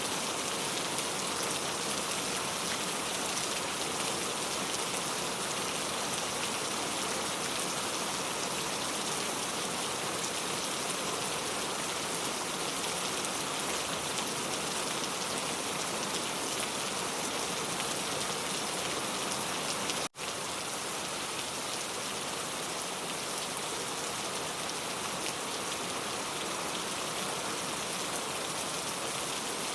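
Steady rain falling, an even dense patter of drops on surfaces, cut off to silence for an instant about two-thirds of the way through before it resumes.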